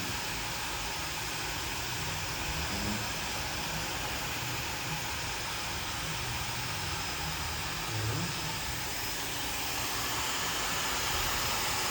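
Hand-held hair dryer running steadily, a constant rush of motor and blown air.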